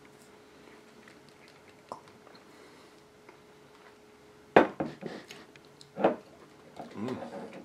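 A man chewing a mouthful of steak close to the microphone, with wet mouth noises and short murmured sounds, starting about halfway through after a quiet stretch with a faint steady hum and a few small clicks.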